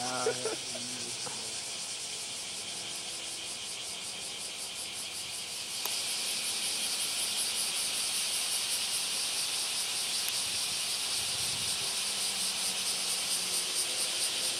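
Cicadas chirring: a high, fast-pulsing buzz that jumps louder about six seconds in and holds steady.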